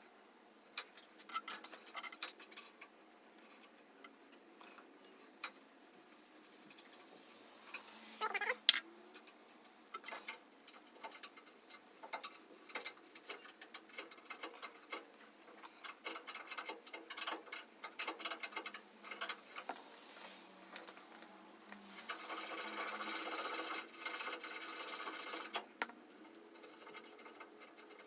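Scattered clicks and clinks of hand tools on the car's underside, with a brief squeak about eight seconds in; near the end a power ratchet runs for about three and a half seconds, spinning out a transmission bolt.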